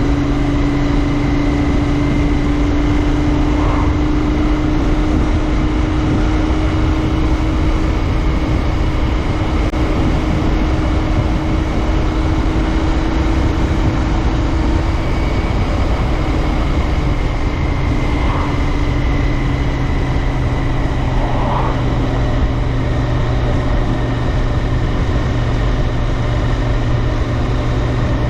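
Royal Enfield Interceptor 650's parallel-twin engine running at a steady cruise on the move, with wind and road noise. The engine pitch climbs slightly, then eases off a little past the middle.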